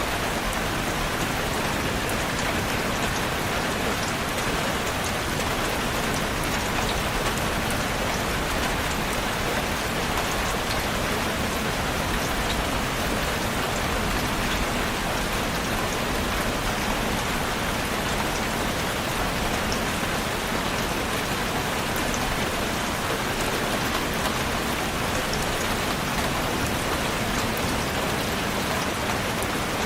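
Steady rain falling and pattering on surfaces, an even hiss with scattered drop ticks that holds constant throughout.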